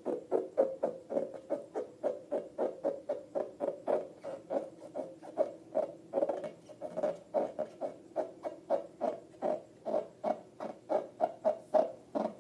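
Slime being squeezed and kneaded by hand: a fast, steady run of wet clicks and pops, about four a second.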